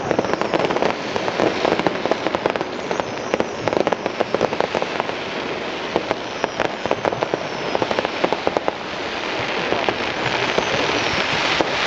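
Fireworks crackling: a dense run of rapid sharp pops that gives way to a steadier hiss in the last few seconds.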